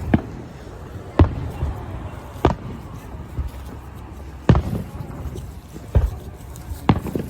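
Distant fireworks shells bursting: about six sharp booms at irregular intervals, each with a short low rumble after it.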